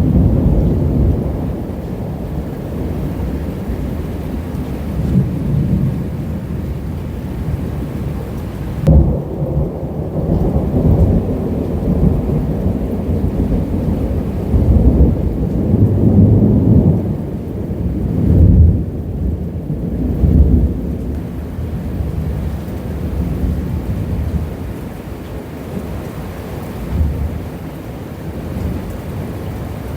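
Rolling thunder rumbling through a thunderstorm, with rain. Louder peals swell about nine seconds in and again between about sixteen and twenty seconds in.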